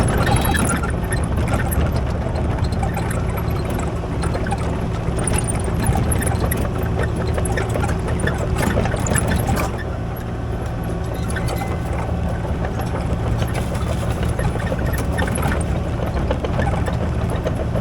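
Kubota KX040 mini excavator's diesel engine running steadily, with clanks and knocks of the machine at work over the first half; after about ten seconds the clatter stops and the engine carries on alone, a little quieter.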